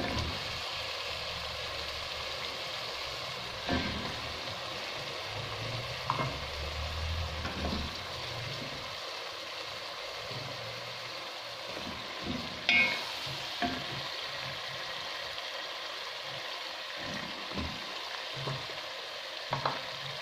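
Tomato and onion sauce sizzling in a pot as raw potato wedges go in and are stirred with a wooden spoon: a steady frying hiss with a few short knocks and scrapes, the loudest about halfway.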